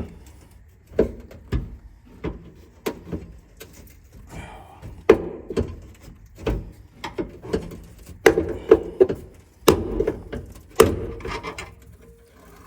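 Irregular knocks, thunks and rattles of hands and tools forcing the stuck glove box in an old truck's steel dash, with the loudest bangs about five, six and a half, ten and eleven seconds in. The glove box latch is gummed up and stuck.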